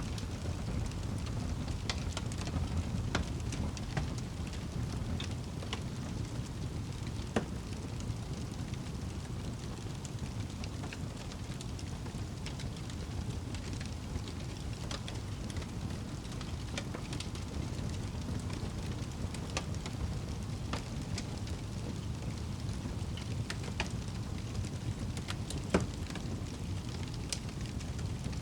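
Wood fire burning in a fireplace: a steady low rumble of the flames with scattered crackles and pops, two of them sharper, about seven seconds in and near the end.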